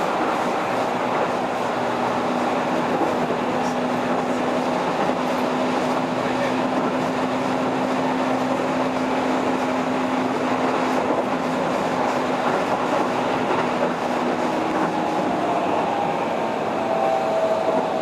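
Keihan 3000 series electric train running at speed, heard from inside the car: a steady rumble of wheels on rail with a steady low hum. A faint higher whine comes in near the end.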